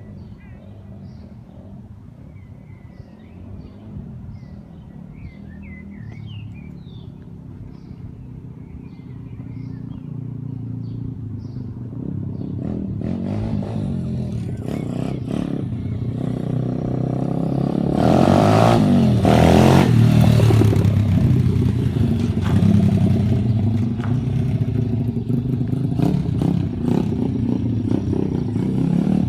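A 140cc dirt bike engine, faint at first and growing steadily louder as it comes closer, loudest about two-thirds of the way through as it revs, then running close by. Birds chirp in the first few seconds.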